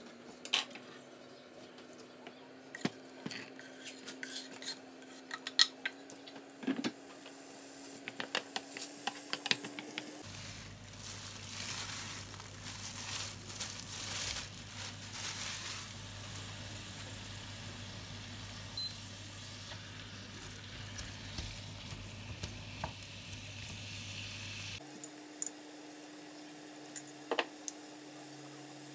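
Chopped onion and then minced meat frying in oil in a ceramic-coated frying pan: sizzling, with a spatula repeatedly clicking and scraping against the pan. The sizzling is loudest through the middle stretch, and a steady hum runs underneath.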